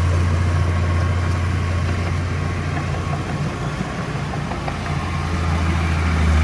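Diesel engine of heavy construction machinery running steadily with a deep hum, easing slightly midway and picking up again near the end.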